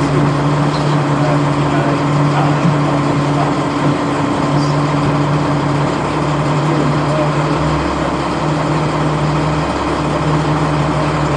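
A boat's engine running steadily under way, a constant low drone with wind and water noise over it.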